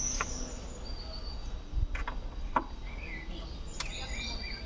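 Birds chirping in the background, with a few sharp clicks scattered through it.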